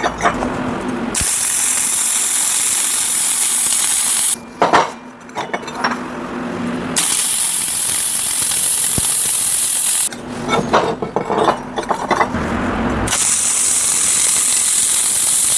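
Electric arc welding: three runs of a steady crackling hiss, each about three seconds long, as full weld beads are laid on tack-welded steel axe blades, with short metal clinks and knocks in the pauses between runs.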